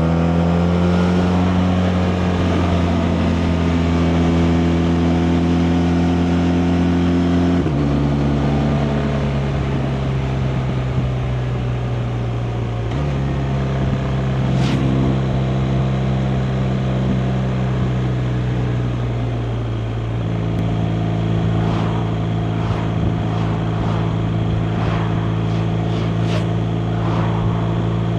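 BMW R 1250 RT's boxer twin engine under way, pulling up in pitch at the start, then holding steady, with two sudden drops in pitch about eight and thirteen seconds in as it changes up a gear. A few short ticks come through near the end.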